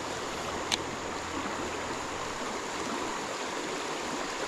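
Creek water running steadily over rocks, with a single sharp click about a second in.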